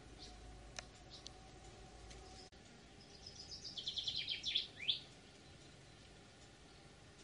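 A songbird singing one fast phrase of rapidly repeated high notes, starting about three seconds in and ending in a quick sweep, with a few faint single chirps before it.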